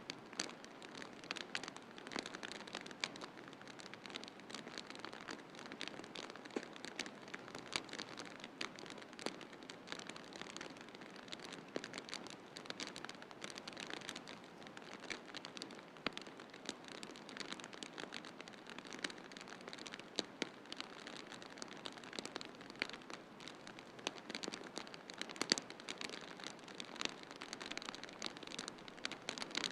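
Wood fire crackling in a fireplace, with dense irregular pops and snaps over a steady hiss.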